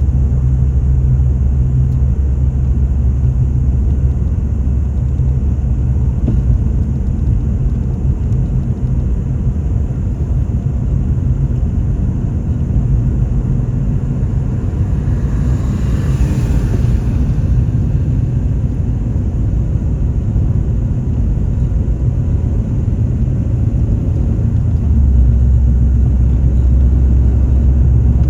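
Steady low rumble of a car on the move, engine and road noise. A brief rush of hiss swells and fades about halfway through, and the low rumble grows stronger near the end.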